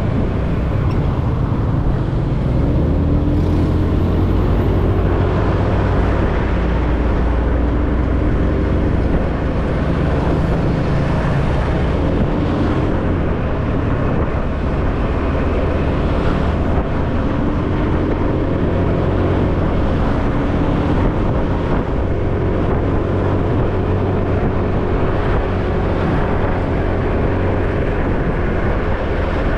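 Ride noise from a motorbike on the move: steady wind rumble over the microphone, with the bike's small engine running underneath, its pitch rising and falling a little with speed.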